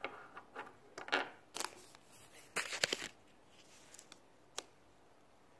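Small toy figures being handled and set down on a surface: a run of clicks and rustles over the first three seconds, then a few scattered clicks.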